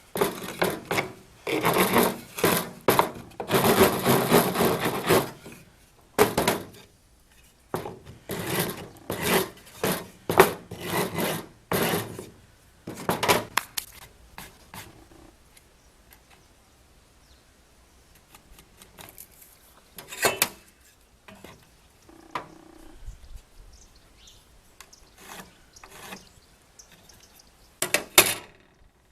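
Rasping strokes of a hand tool on wood, dense and repeated for roughly the first half, then quieter with a few scattered knocks and scrapes and one last loud stroke near the end.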